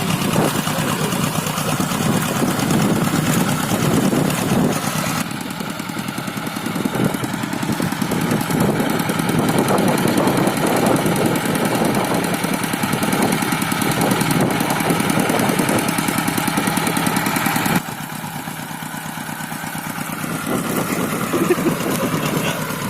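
Engine of a rice-field hand tractor running steadily. Its sound changes abruptly about five seconds in and drops in level near eighteen seconds in.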